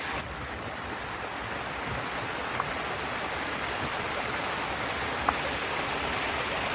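Steady rushing noise, like running water or heavy rain, with two faint ticks partway through.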